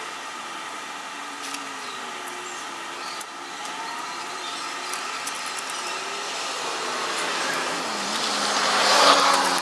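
A car approaching on the road, its engine and tyre noise growing steadily louder and peaking near the end as it draws up close.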